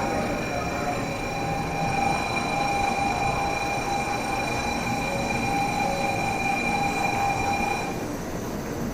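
Shinkansen train running at the platform: a steady rush of noise with several steady high whining tones, which stop shortly before the end.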